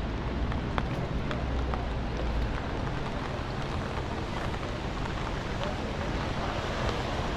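Rainy city street ambience: steady traffic noise with a heavy low rumble that eases about two and a half seconds in, scattered sharp ticks and faint voices.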